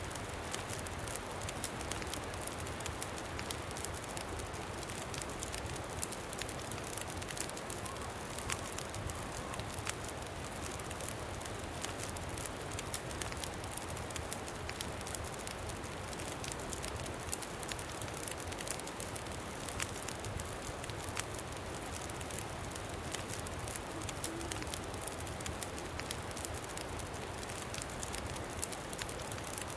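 Campfire crackling, with frequent irregular pops and snaps, over a steady blowing wind.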